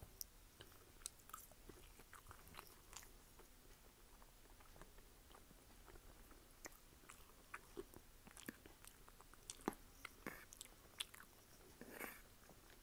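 Close-up chewing of crunchy food with the mouth closed: soft, irregular crunches and mouth clicks. Near the end, a brief longer noise as a fork goes into the bowl.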